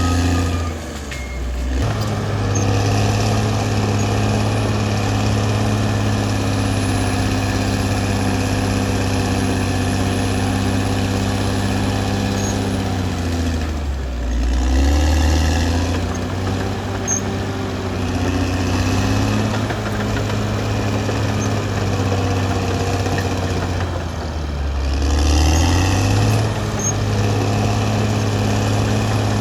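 Caterpillar D6R XL bulldozer's diesel engine running steadily under work, its pitch dipping and climbing back three times: about a second in, about halfway, and near the end.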